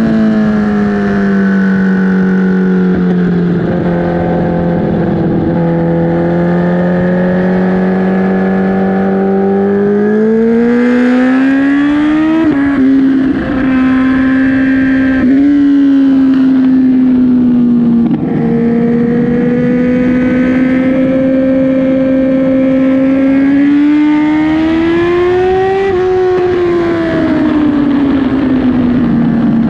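Kawasaki ZX-10R's inline-four engine running hard on track. The engine note holds fairly steady, climbs about ten seconds in and is broken by quick upshifts, then rises slowly again and falls away near the end as the rider rolls off.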